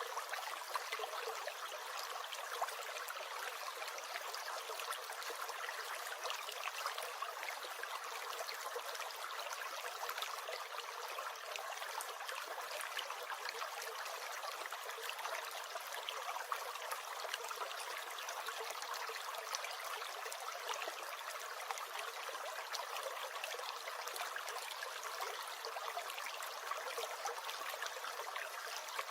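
Small stream gurgling and trickling steadily, a continuous rush of water dotted with small splashing ticks.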